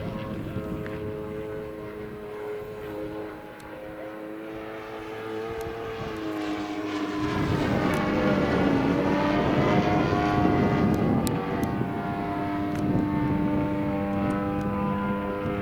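Radio-controlled model airplane in flight, its propeller and motor giving a steady pitched drone that shifts as it flies. About seven seconds in it grows louder, and its pitch drops as it passes close by.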